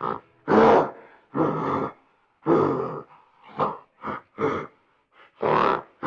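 A series of about eight harsh animal grunts, some short, some about half a second long, with brief pauses between them.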